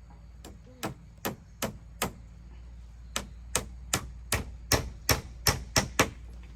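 A hammer striking in a steady run of blows, about two to three a second: four strikes, a pause of about a second, then nine more, getting louder toward the end. This fits nails being driven while laying floorboards.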